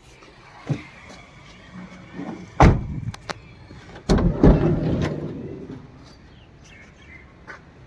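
Maruti Suzuki Eeco van's sliding side door being worked: a sharp knock about two and a half seconds in, then a heavier bang with a short rumble about four seconds in as the door runs and shuts.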